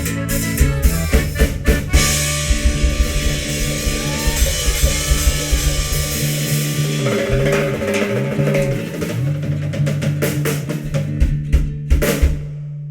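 Band music without singing: accordion, guitar, electric bass and drum kit playing an instrumental passage, with rapid drum strokes in the first two seconds, held accordion-like tones and a sliding bass line through the middle, and a short break just before the end.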